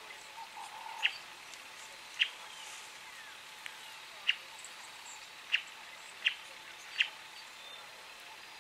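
A bird giving a short, sharp call about six times at uneven intervals, over a faint steady hiss of bush ambience.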